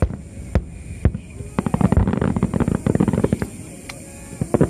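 Aerial fireworks: three separate booms, then a fast crackling run of many small bursts, with more cracks near the end. Faint music plays underneath.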